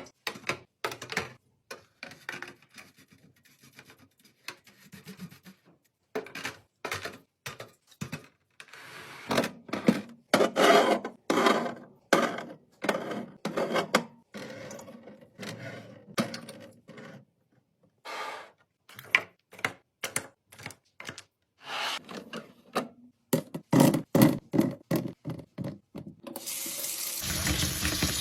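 Food containers and items being handled and set down with many light knocks and clicks, and water running for several seconds in the middle.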